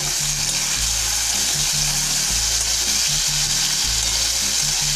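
Chopped tomatoes and onions frying in hot oil in a wok with a steady sizzle, stirred with a spatula.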